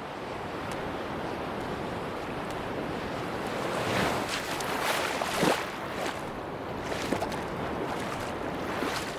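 Sea waves on a beach: a steady rush of surf that swells as a wave breaks and washes in about halfway through, then falls back.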